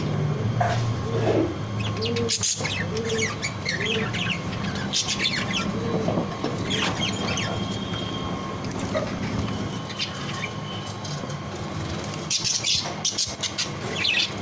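Pigeons in a loft cooing, with wing flaps and higher chirps among them; the cooing thins out after about six seconds.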